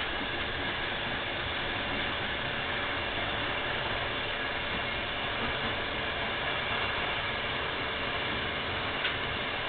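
Steady mechanical running noise of a VR InterCity train at a station, with a few faint steady whining tones and a single sharp click near the end.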